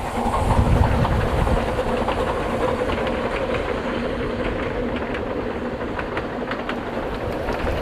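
Ffestiniog Railway narrow-gauge train passing, a steady rumble with scattered clicks from the wheels.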